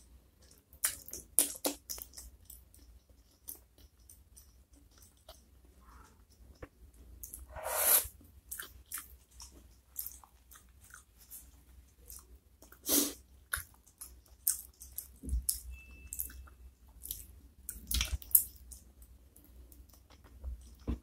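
Close-miked wet chewing and mouth clicks of someone eating soft spicy chicken feet and chewy flat noodles. There are irregular smacks and a few longer noisy draws.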